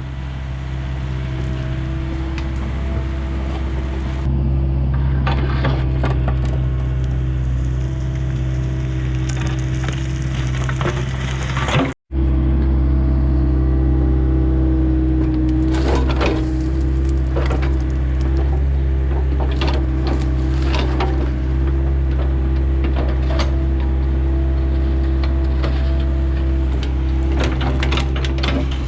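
Komatsu excavator's diesel engine running steadily under load while it digs out tree stumps, with irregular cracks and knocks of wood and roots breaking.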